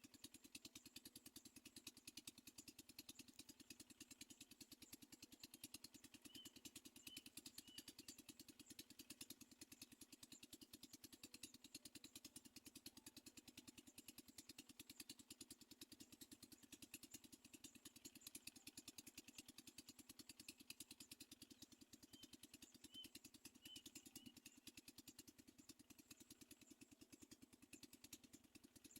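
Faint, steady, very fast even pulsing buzz, with a few faint high chirps in small groups twice.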